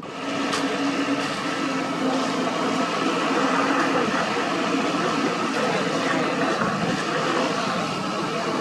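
Heavy road-paving machinery running steadily: a diesel engine's continuous hum with a steady higher whine, starting abruptly at the beginning.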